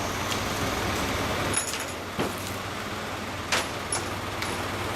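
Scattered sharp knocks and clinks of hand work on a wooden danjiri festival cart being assembled, about five in all, over a steady low hum.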